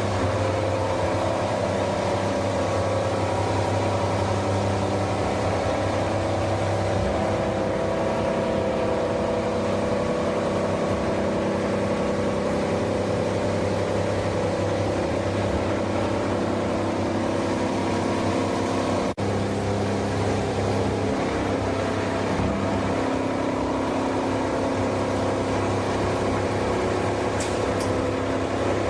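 PE/PP plastic washing line running steadily, its motors giving a loud, even machine hum with a strong low drone. The sound breaks off very briefly about two-thirds of the way through.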